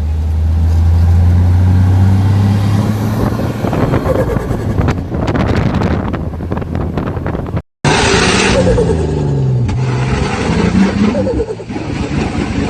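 Turbocharged straight-six 4x4 engine running hard, then easing off. After a brief cut about eight seconds in, an engine revs up and down repeatedly.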